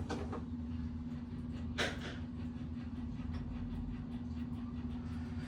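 Rough cup-and-cone bicycle wheel-hub bearing turning with a steady low rumble and hum, and one sharp click about two seconds in. The growl comes from pitting on the bearing races.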